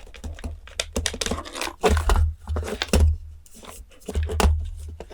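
Handling noise of a computer power supply and its cables being moved about on a bench: irregular clicks, rustling and dull knocks.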